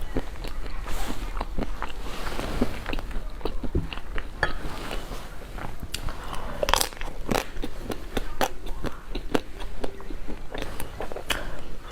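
Close-miked eating: biting and chewing tangyuan (glutinous rice balls) in soup, a steady run of wet mouth clicks and smacks with a stronger smack about seven seconds in.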